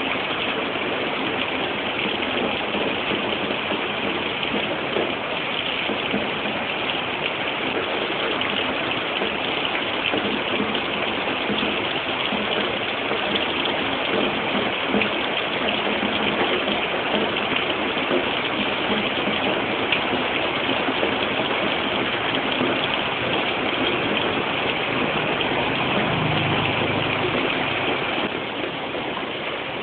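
Heavy rain pouring steadily onto leaves and the ground, a dense continuous hiss, as picked up by a basic phone microphone. Near the end a brief low rumble sounds under the rain.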